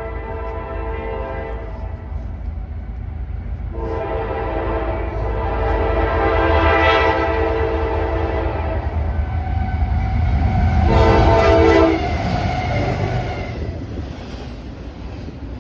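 Locomotive air horn blowing at a grade crossing: the end of one blast, then a long blast, then a short one. Under it the train's low rumble builds as the locomotive passes and then eases off.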